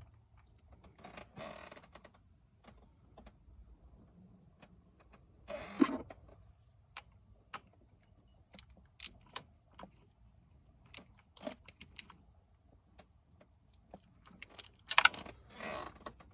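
Scattered light clicks and small knocks, with a few short rustling scrapes, from tools and parts being handled by hand in an engine bay with the engine off. The loudest scrape comes about fifteen seconds in.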